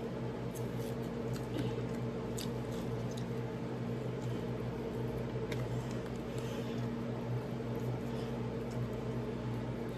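Close-up eating of fried chicken wings: wet chewing and the tearing of meat from the bone, heard as scattered faint clicks and squishy mouth sounds over a steady low hum.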